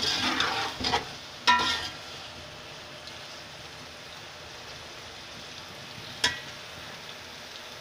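Metal spoon stirring and scraping through boiled chickpeas and potatoes frying in oil in a metal pot, with a few ringing clinks against the pot in the first two seconds. The oil then goes on sizzling steadily, with one sharp clink of the spoon about six seconds in.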